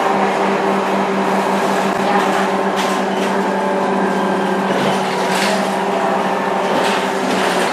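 Scania K230UB bus's diesel engine running at a steady pitch under way, with a few brief rattles.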